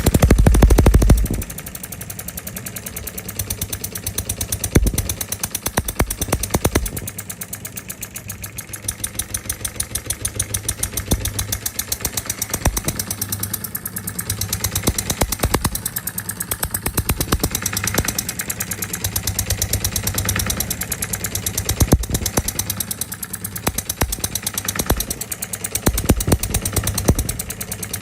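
Small D16 model diesel engine running steadily, with a rapid, even firing knock. It is louder for about the first second and a half, then settles to a steady run.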